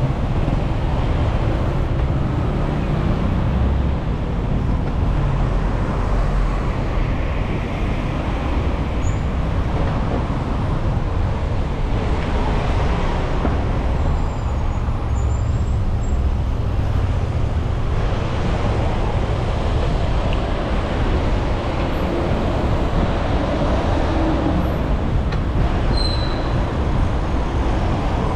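Steady city road traffic noise, with a low wind rumble on the microphone of a moving bicycle.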